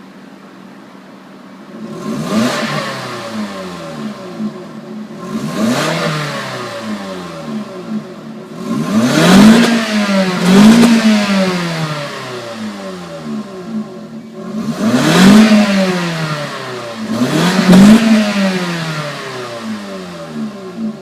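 2003 Toyota Celica's 1.8-litre four-cylinder engine through its stock exhaust, idling briefly and then revved six times. Each rev climbs quickly and falls back slowly toward idle, with two close together about halfway through.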